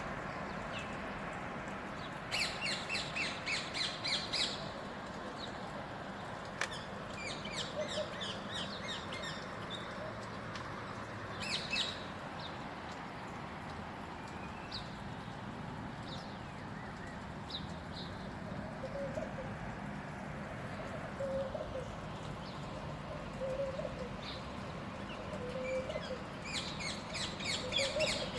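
Wild birds calling: bursts of rapid, high chattering notes lasting about two seconds each, near the start, around eight seconds in and again near the end, with scattered single chirps and a few faint low calls in between, over a steady background hiss.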